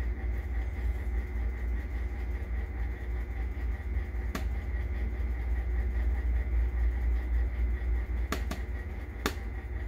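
Steady low machinery hum, like building air-handling equipment running, with faint steady tones above it. Three short sharp clicks come about four, eight and nine seconds in.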